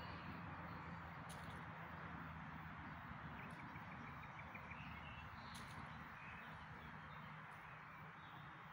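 Faint outdoor ambience: a steady soft hiss with a few distant bird chirps and short ticks.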